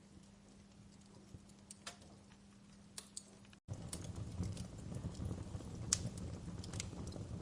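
Wood fire crackling in a fireplace, with scattered sharp pops and snaps over a faint low hum. A little past halfway the sound drops out for an instant, then returns louder, with a fuller low rumble under denser crackling.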